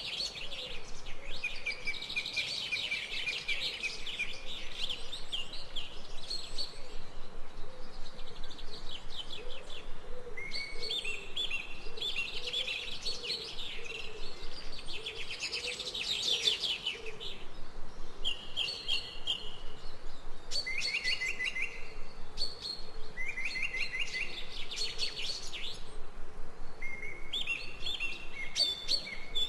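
Songbirds chirping and singing, with quick trilled phrases repeating every few seconds over a faint steady hiss.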